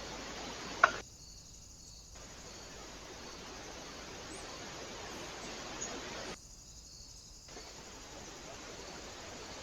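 Steady hiss of a trail camera's microphone and recording noise, with one sharp click a little under a second in; the hiss thins out twice for about a second.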